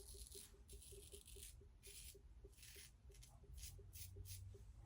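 Faint, short scraping strokes of an Ikon X3 slant safety razor cutting lathered stubble, about a dozen quick strokes in a row, two to three a second.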